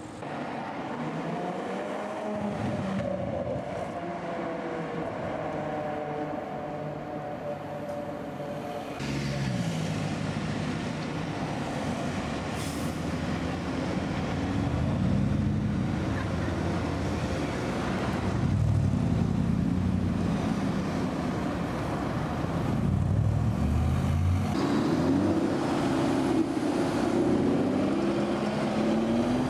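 Engines of sports cars driving off in street traffic, one after another: an Audi RS5's V8 near the start, a Mercedes-Benz SLR McLaren's supercharged V8 in the middle, and an Aston Martin Vantage near the end. Engine pitch rises and falls as each car pulls away and changes gear, with a climbing note just before the end.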